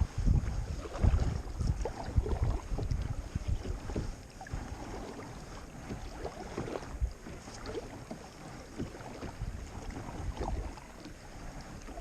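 Kayak paddling: irregular splashes and drips of the paddle in the water, with low gusts of wind on the microphone, louder for the first four seconds and quieter after.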